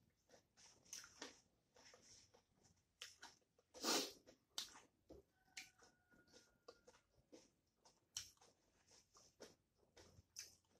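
Close-miked chewing and wet mouth sounds of a person eating rice and curry by hand: soft irregular smacks and small clicks, with one louder smack about four seconds in.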